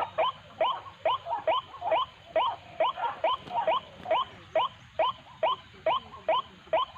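White-breasted waterhen calling: a fast, steady run of short, harsh notes that each rise in pitch, about two a second.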